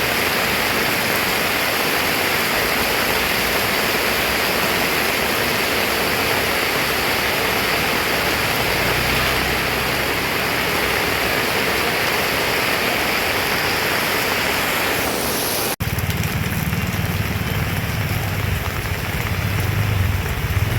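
Heavy rain falling, a dense steady hiss. About three-quarters of the way through, the sound drops out for an instant. After that the hiss is thinner and a low rumble comes in under the rain.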